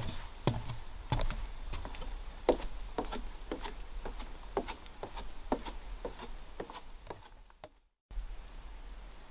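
Footsteps of a hiker walking along a trail, about two steps a second, growing fainter, then a sudden brief dropout to silence near the end before a faint background returns.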